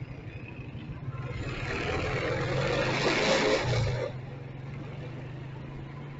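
Motorcycle engine running steadily in traffic. A louder rushing noise swells for about three seconds and cuts off suddenly about four seconds in.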